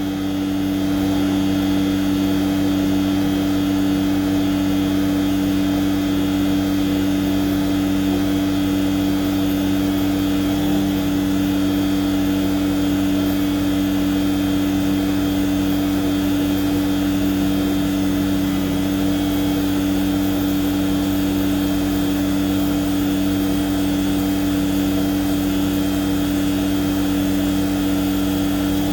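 Tanker truck's engine-driven pump running at a steady speed, a constant low drone with two strong steady hums and no change in pitch or level.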